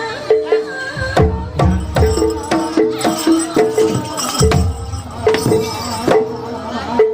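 Traditional Javanese gamelan-style music accompanying a turonggo horse dance. Drum hits sound under pitched strikes that alternate between two notes, about two to three strikes a second.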